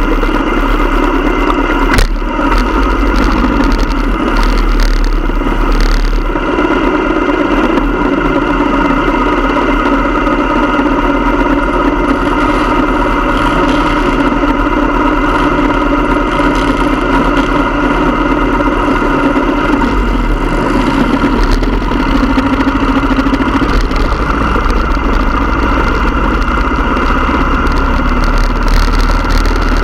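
Motorcycle engine running steadily, with one sharp click about two seconds in.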